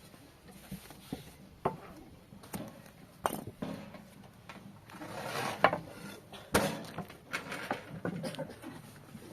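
Scattered knocks and light clatter of objects being handled, with a brief rush of noise about five seconds in and a sharper knock just after.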